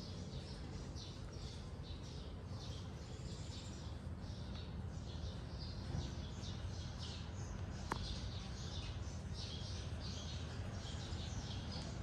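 Small birds chirping over and over in quick, irregular high notes, over a steady low background rumble, with one sharp click about eight seconds in.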